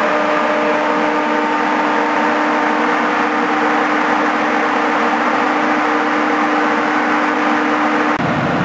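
Fire truck engine running steadily under a steady hum, with a low rumble growing louder near the end.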